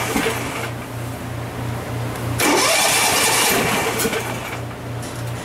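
Riding lawn mower's 13 hp engine turning over on its electric starter, an even pulsing churn, with a loud hiss that comes and goes twice over it.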